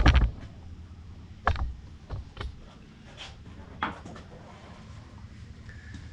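Irregular knocks and clanks of metal parts and tools being handled while fitting a go-kart throttle linkage, loudest right at the start and again about a second and a half in.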